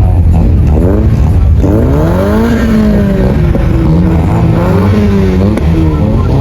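Car engines revving again and again, the pitch climbing and dropping over a steady low rumble.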